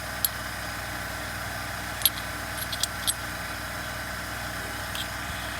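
Chainsaw parts handled while searching for a replacement clutch drum: a handful of light clicks and taps, over a steady background hum.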